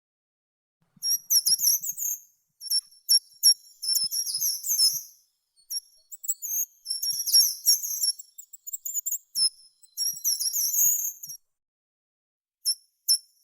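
A songbird singing in quick, high-pitched twittering phrases, with short pauses between them.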